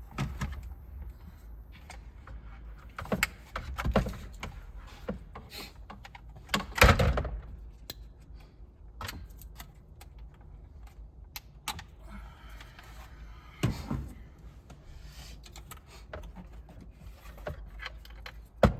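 Scattered clicks, rattles and knocks of plastic trim and connectors being handled and fitted inside a pickup cab, with a louder knock about seven seconds in, another about fourteen seconds in and a sharp one near the end.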